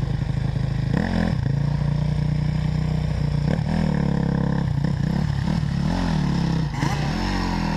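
Dirt bike engine running with the throttle blipped over and over, the pitch rising and falling about once a second.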